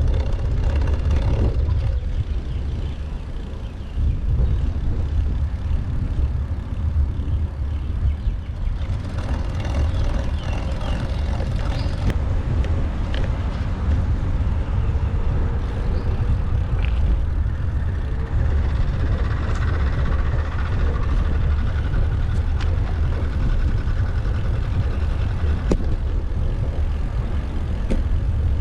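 Wind buffeting the microphone of a bicycle-mounted GoPro while riding, a steady low rumble, with road traffic going past and a few sharp ticks.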